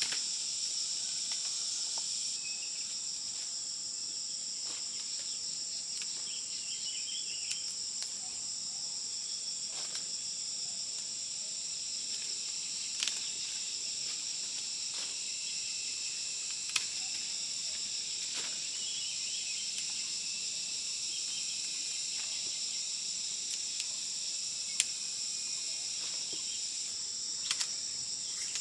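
Steady shrill insect chorus, a continuous high-pitched drone, with scattered sharp clicks and a few faint short chirps over it.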